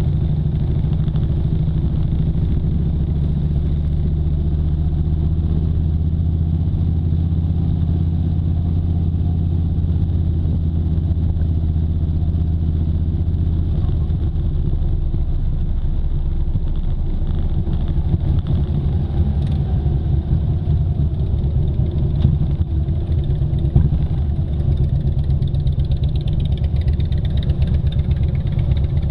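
Motorcycle engine running steadily under way, its note holding even for the first half and then wavering up and down. A high whine slides downward near the end.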